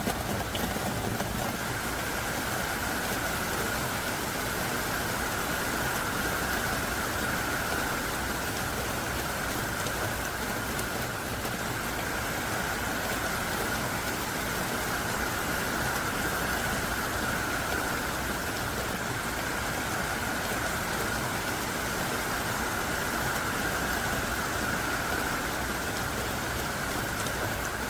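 Heavy, pouring rain falling steadily, a dense even hiss of downpour that does not let up.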